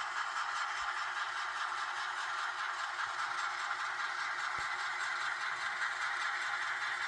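HO scale model train running along the layout's track: a steady whirring hiss of the small motor and wheels on rail, with a faint light rattle.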